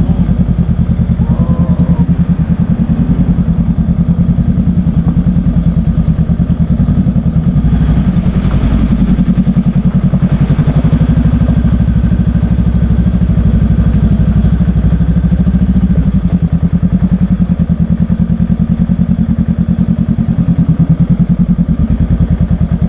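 Honda Rebel 500's parallel-twin engine running steadily under way, with a fast, even exhaust pulse.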